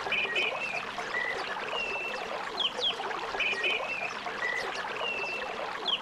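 Small birds chirping in a phrase that repeats about every three seconds: a couple of quick falling whistles, paired chirps, then a short flat note, over a steady background hiss.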